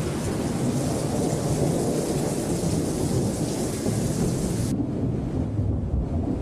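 Rain falling during a thunderstorm, with a continuous low rumble of thunder beneath it. The high hiss of the rain drops away suddenly about two-thirds of the way through, leaving the rumble.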